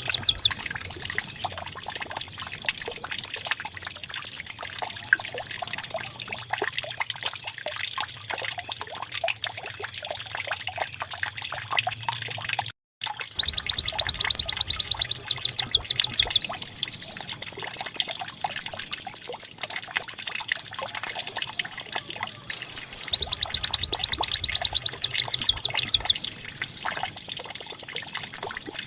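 Pleci (white-eye) singing a canary-like song: loud, very fast high trills of rapidly repeated notes. After the first phrase comes a quieter stretch of soft twittering and a brief dropout, then the loud trilled phrases return, with one short pause later.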